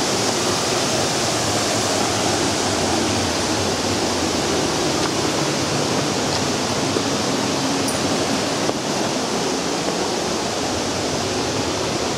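Steady rushing of a river's water, an even hiss that does not let up.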